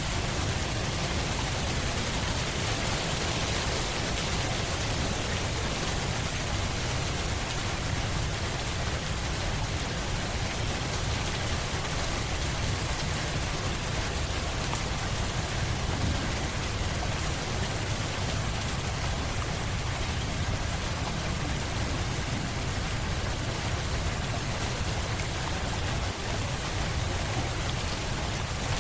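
Steady rain falling, an even hiss of drops with a deep low rumble underneath.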